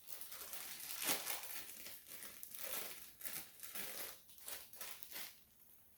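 Plastic wrapper of a Maruchan instant ramen noodle packet crinkling as it is handled, in irregular rustles that stop about a second before the end.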